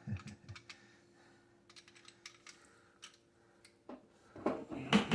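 Scattered light clicks and taps of a tool working on the metal fittings under a kitchen sink, over a faint steady hum that stops near the end.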